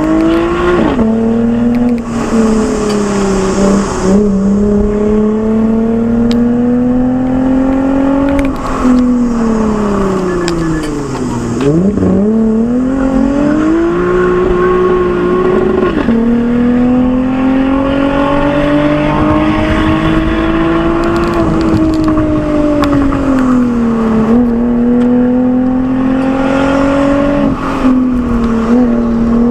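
Lexus IS with a Fi aftermarket exhaust pulling hard on a mountain road: the engine note climbs steadily under acceleration and drops sharply at each upshift, about four times. About ten seconds in it falls away as the car slows, then climbs again.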